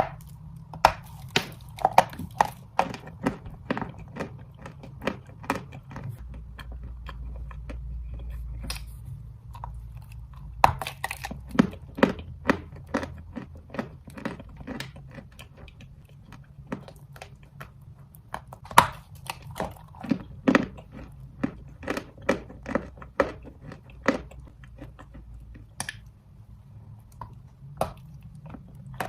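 Dry red chalk being bitten and chewed close to the microphone: a dense, irregular run of sharp crunches, over a faint low hum.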